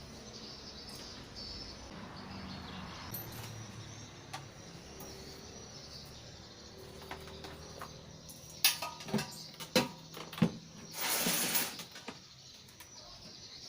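Low background hum, then a handful of sharp knocks and clicks in the second half, followed by a short hiss lasting under a second.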